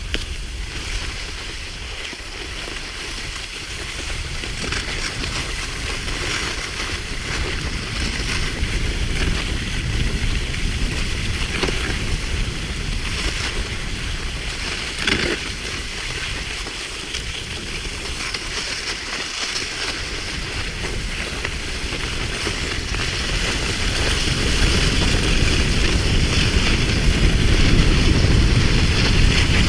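Wind buffeting the microphone: a low rumble under a steady hiss, with a couple of faint knocks midway and the rumble growing louder over the last several seconds.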